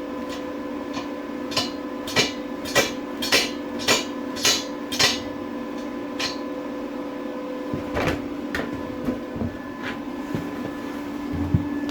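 Hammer blows: about nine sharp, evenly paced strikes roughly every half-second, then a single strike and a few scattered knocks.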